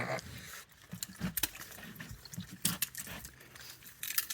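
Wild raccoons eating from trays: scattered light clicks and taps of claws and food against the dishes, with a few brief low animal sounds.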